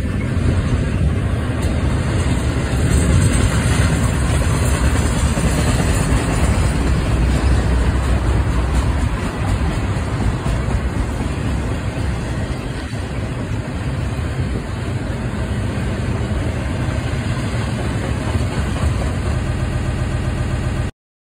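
Double-stack container train rolling past: a steady, heavy rumble of steel wheels on the rails from the well cars going by. The sound cuts off suddenly near the end.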